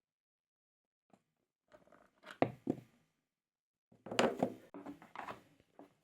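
Irregular knocking and crunching as a washing machine tub is worked on and opened, in two bursts, the second about four seconds in and louder.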